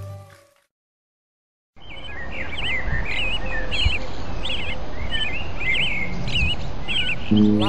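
A forest ambience cuts in after a second of silence: a steady background hiss with a small bird chirping quick, twisting notes over and over.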